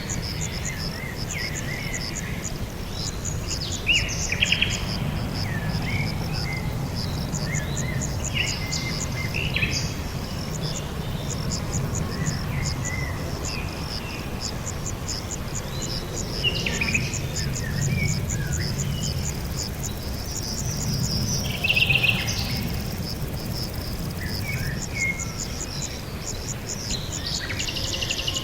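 Insects trilling steadily in rapid pulses, with several birds chirping and warbling over them in short phrases, a louder burst about four seconds in and another near twenty-two seconds; a low background rumble underneath.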